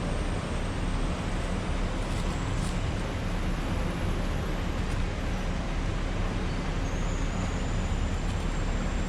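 Star Ferry's engine running steadily: a low, even hum under a constant noisy wash.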